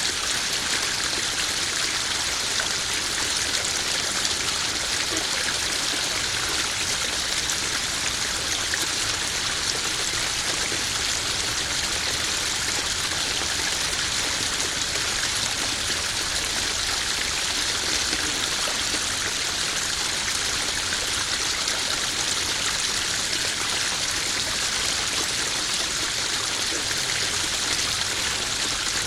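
Small garden waterfall splashing steadily into a koi pond, an even rush of falling and trickling water.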